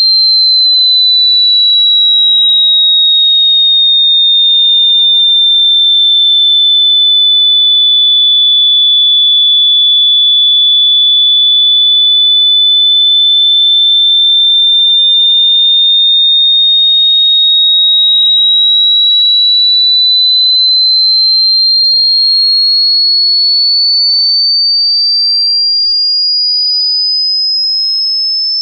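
A single high-pitched electronic sine tone, a supposed 'ultrasound' pet-annoying sound that is in fact plainly audible. It glides slowly down in pitch over the first ten seconds or so, holds, then slowly climbs back up to a higher pitch, getting slightly quieter near the end.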